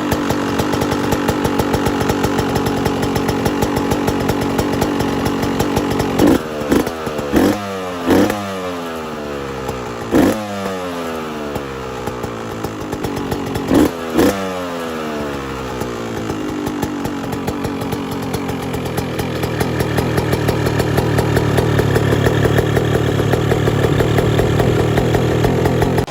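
Yamaha YZ125 two-stroke single-cylinder engine with an aftermarket exhaust, running steadily, then blipped sharply about six times, each rev dropping quickly back in pitch. It then settles into steady running that grows louder toward the end.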